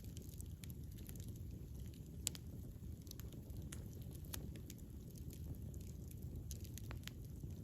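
Campfire burning with a steady low rumble and scattered small crackles and pops, one sharper pop a little over two seconds in.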